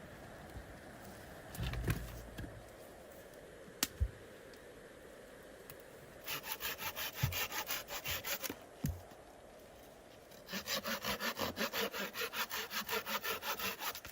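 Hand saw cutting wood with quick, even back-and-forth strokes, about five a second, in two runs of a few seconds each. A dull thump and two sharp knocks come before the sawing.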